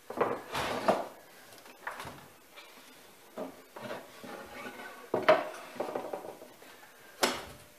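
Irregular knocks, clunks and light metallic clatter from setting a saw to a 45-degree angle and handling the wood, with the loudest clunk about five seconds in.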